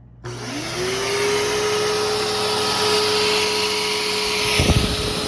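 Bissell Powerforce Helix Turbo upright vacuum, refurbished with a new brushroll and belt, switched on: the motor whine rises quickly and settles into a steady running pitch over a loud rush of air. A brief low thudding rumble comes near the end.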